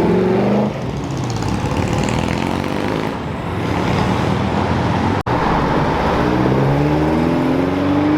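Car engine revving hard as the car accelerates away: the pitch climbs, drops sharply about a second in as the driver shifts gear, then climbs again through the second half.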